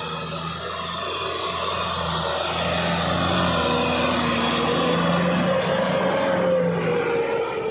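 Kubota tractor's diesel engine running under load while plowing through mud, its pitch wavering slightly. It grows gradually louder, then eases off near the end.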